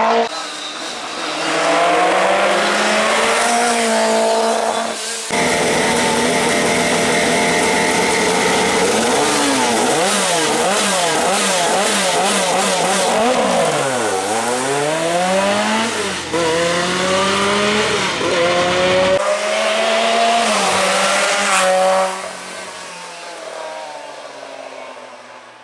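Lancia Rally 037's supercharged four-cylinder engine revving hard, its pitch climbing and dropping again and again through gear changes and lifts. About halfway through the pitch falls low and climbs back up. Over the last few seconds the sound fades as the car moves away.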